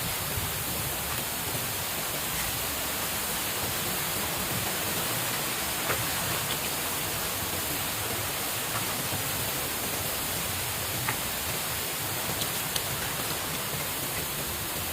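Steady hiss of water noise, even throughout, with a few faint scattered ticks.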